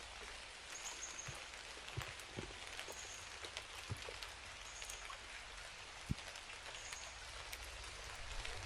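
Rain falling in woodland, a steady hiss with scattered drops ticking close by.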